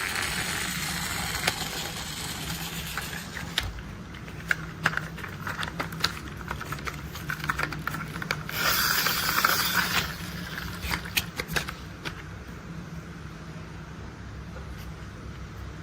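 Plastic toy construction vehicles handled and rolled: a run of scattered clicks and taps, with a brief scraping rush about halfway through, over a faint steady low hum.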